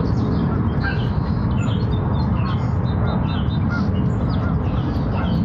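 Many small birds chirping and calling, a steady scatter of short high notes, over a loud, steady low rumble.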